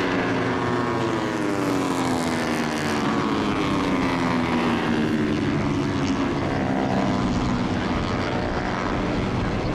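Several Moto3 racing motorcycles, 250 cc single-cylinder four-strokes, passing at racing speed with overlapping high engine notes. Their pitch falls over the first half.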